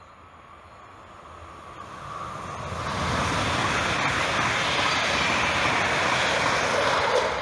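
Electric multiple-unit passenger train passing at speed: the rush and rumble of wheels on rail grow from about two seconds in, hold loud and steady through the passing, and begin to ease at the very end.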